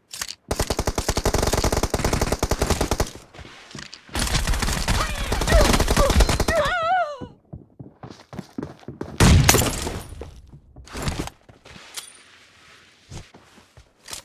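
Video game gunfire in a multiplayer shooter: a long rapid burst of automatic fire, then a denser, heavier stretch of firing, then a few single loud shots and sparser pops toward the end.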